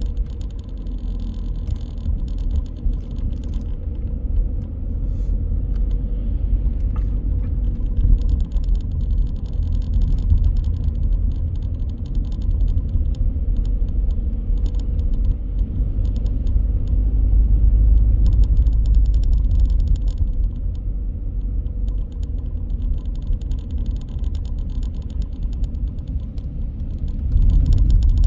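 Motor vehicle driving: a steady, deep engine and road rumble with light rattles over it.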